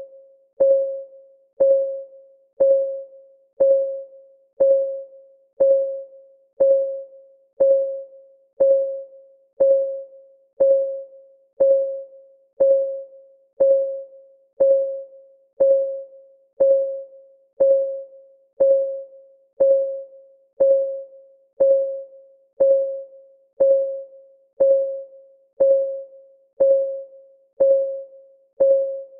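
Timer clock ticking: a short, pitched tick about once a second, each one ringing briefly and fading before the next, evenly spaced.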